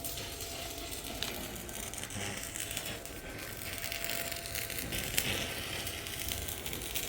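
Steady crackling, sizzling noise with a faint steady tone running through it and a few small clicks.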